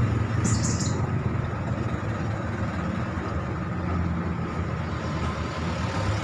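Steady low rumble of road traffic, with a short high hiss about half a second in.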